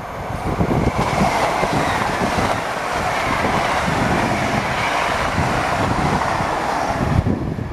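LNER Azuma train passing along the platform line, a steady loud rush of wheels and air that builds over the first second and stops suddenly about seven seconds in. Wind buffets the microphone throughout.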